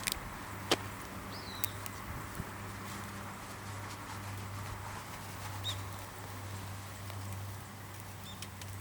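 Outdoor quiet with a few sharp pops and cracks in the first couple of seconds, likely from the small wood fire, and a few short bird chirps spread through it over a steady low hum.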